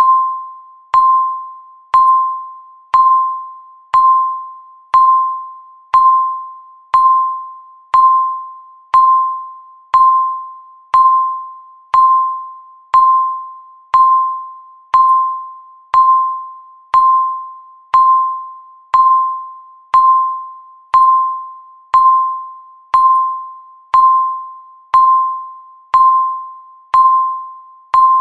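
Countdown timer's ticking sound: one sharp electronic tick every second, each ringing briefly as a single pitched ping that fades before the next, in a steady, even rhythm.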